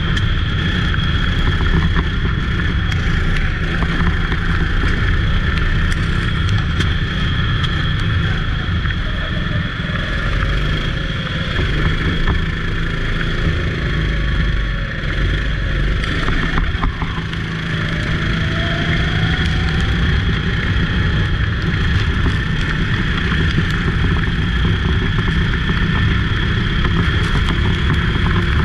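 Go-kart engine running hard during a race on a wet track, under a loud, steady rumble and hiss, with a fainter engine pitch rising and falling several times.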